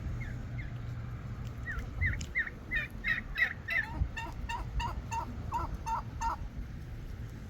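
Domestic fowl calling in a rapid run of short repeated notes, about five a second. The calls are higher at first and lower in the second half, loudest in the middle, with a few fainter calls around them.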